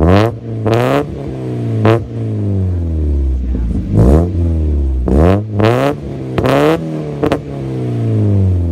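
1996 1.8-litre four-cylinder car engine through a Manzo aftermarket cat-back exhaust, with stock headers and catalytic converter, free-revving. About eight or nine quick throttle blips, each rising sharply and sinking back to idle, with a longer idle about two seconds in.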